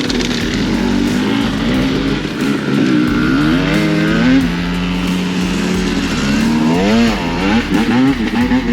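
Pit bike engines, more than one, revving up and down. Their pitches rise and fall and overlap, with sharp swings in revs about four seconds in and again near seven seconds.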